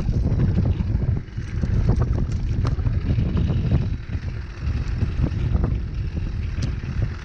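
Wind buffeting the microphone in gusts: a heavy, low rumbling that surges and dips, with scattered small clicks and knocks over it.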